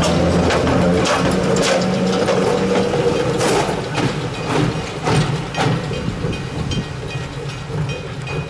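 Electric locomotive and train running on the rails, wheels clicking over rail joints. A steady hum for the first three seconds, and irregular clicks that grow quieter as the locomotive moves off.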